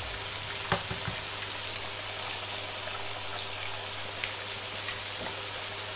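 Oil and julienned spring onion sizzling steadily in a hot wok as eggs are added, with a few short sharp taps of eggshell against the pan. A low steady hum runs underneath.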